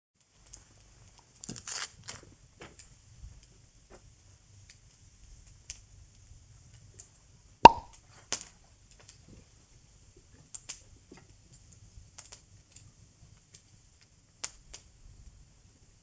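Wood bonfire crackling: sparse, irregular pops and snaps, with one loud sharp crack a little under halfway through.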